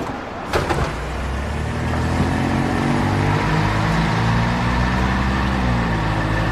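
Bus engine running, its low hum picking up in level and pitch about two seconds in and then holding steady, with a few short knocks just before it.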